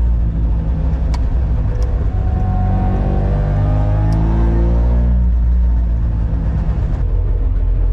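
Small two-stroke engine of a Daihatsu pulling under acceleration, its pitch rising for about five seconds and then dropping, as on a gear change or lift-off. A few faint clicks are heard during the rise.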